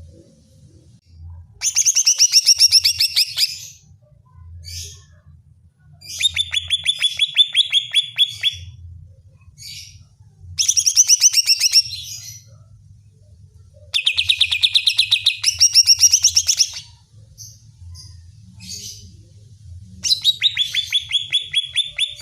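Cucak ijo (leafbird) singing: five loud, fast trilled phrases of a second and a half to three seconds each, with short pauses holding a few single notes. It is the agitated, challenging song used as a lure to stir other cucak ijo.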